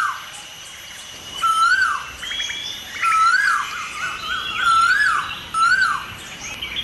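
Asian koel calling: a repeated whistled note that rises and then drops sharply, heard about five times with gaps of a second or so. Fainter higher chirps from other birds run behind it.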